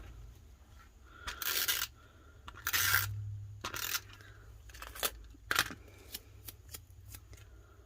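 Paper and sticker pieces being handled on a craft table: two rustling, crinkling bursts, then a few sharp clicks and light taps as the pieces are set down.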